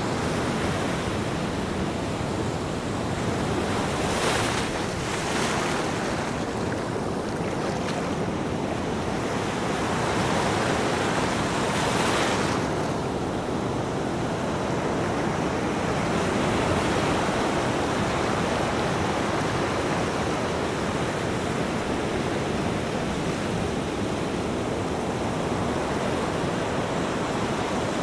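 Ocean waves breaking and washing on a beach in a continuous rush of surf, with louder surges of hiss as individual waves break.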